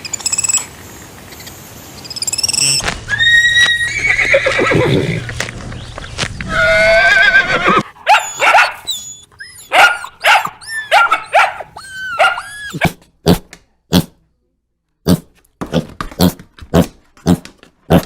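Horse whinnying: loud neighs with a falling pitch, one of them quavering, followed by a run of short calls and then a string of sharp knocks.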